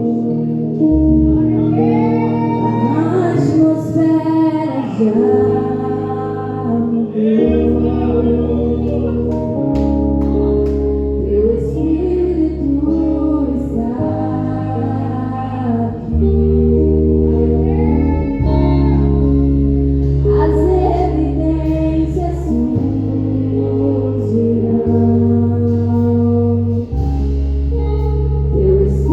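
Live worship music: a female voice singing a Portuguese praise song over sustained keyboard chords and bass, with other voices joining in.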